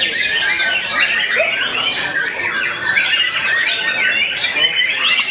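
Caged white-rumped shamas (murai batu) singing against each other in competition: a dense, unbroken chorus of many overlapping quick whistles and chirps.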